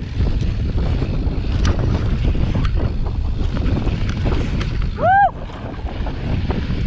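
Wind buffeting the microphone of a camera on a mountain bike riding fast downhill, a steady low rumble. About five seconds in there is one brief shout.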